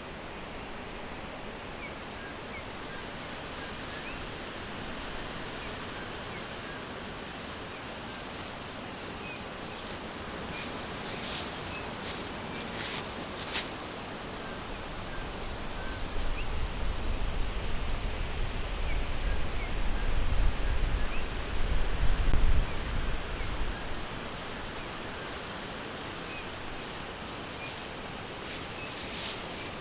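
Forest ambience: faint, scattered bird chirps over a steady hiss, with a few short rustling bursts and a low rumble that swells for several seconds in the middle.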